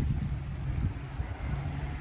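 Wind buffeting the microphone over the steady low hum of an idling car.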